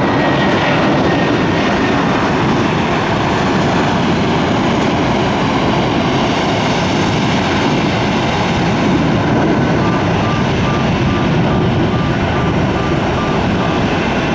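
Jet airliner's engines at takeoff thrust, a loud steady roar that holds throughout. A rapid series of high beeps sounds over it near the end.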